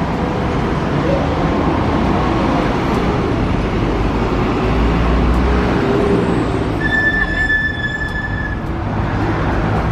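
Road traffic: vehicles running past with a steady low rumble. About seven seconds in, a single high steady tone sounds for about a second and a half.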